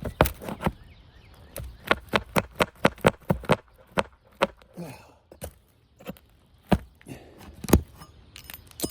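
Metal tools knocking and scraping on asphalt roof shingles as roofing nails are pried out, a run of sharp irregular knocks, several a second at times. The nails pull right through the shingle instead of coming out.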